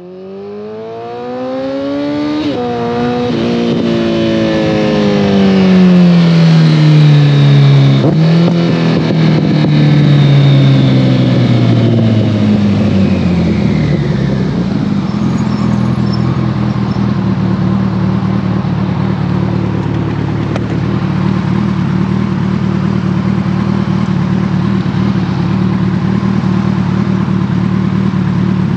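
2014 Kawasaki ZX-14R's inline-four running through a full Brock's Alien Head 2 exhaust as the bike is ridden. The engine note rises at first, then falls in two long sweeps with a sudden step up in pitch between them, and from about halfway holds one steady note.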